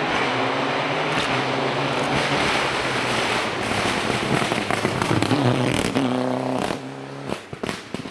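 Rally car engine driven hard past the listener, its engine note buried in loud tyre and road noise. Near the end it comes off the throttle and the exhaust lets out a series of sharp pops and bangs.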